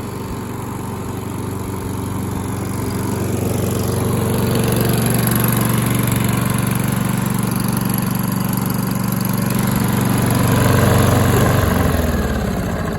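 Kohler XT675 single-cylinder mower engine running at a steady speed, growing louder a few seconds in. Near the end its speed drops and the sound falls away as the engine slows.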